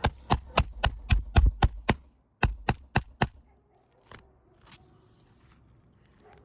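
Roofing hammer striking in quick, sharp blows with a metallic ring, about four a second: eight strikes, a brief pause, then four more, followed by a couple of faint knocks.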